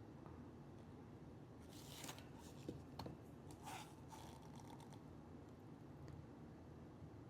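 Faint handling noises over near silence: brief rustles and a few light clicks near the middle, as the resin cups and bird jar mold are handled.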